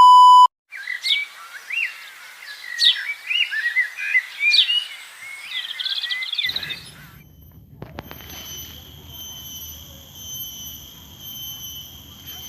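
A short loud beep, then several songbirds chirping and whistling with quick rising notes for about six seconds. About six seconds in, the birds give way to a steady high-pitched insect drone over a low rumble.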